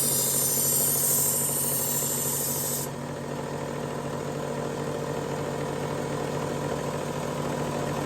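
Work Sharp Elite powered belt sharpener running with a coarse X200 abrasive belt, grinding a chef's knife edge to reprofile it: a hissing grind over the steady motor hum, which stops suddenly about three seconds in as the blade comes off the belt, leaving the motor and belt running on their own.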